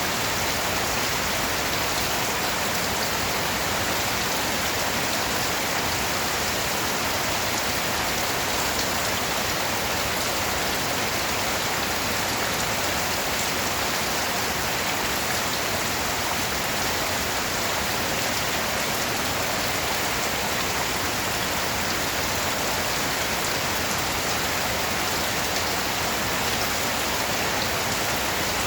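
Steady rain falling, an even hiss of many small drops on a surface with no change in intensity.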